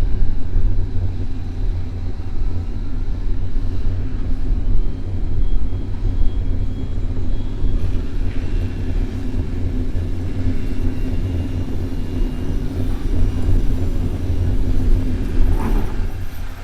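Steady low rumble of city traffic and riding noise picked up by a bicycle-mounted camera while cycling.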